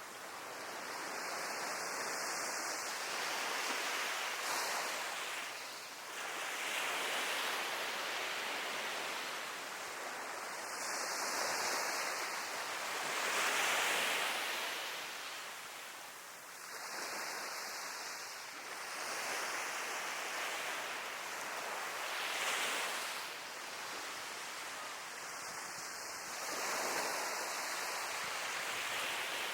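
Sea waves breaking on the shore. The surf swells and eases in surges every several seconds.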